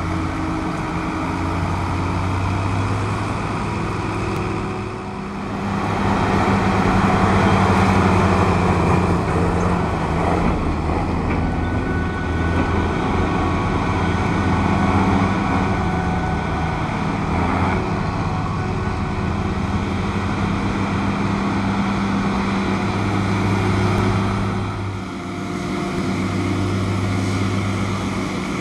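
Big diesel engines of a Claas Jaguar forage harvester and Claas Xerion tractor running steadily, with a deep hum. A louder, noisier stretch begins about six seconds in and drops back near the end.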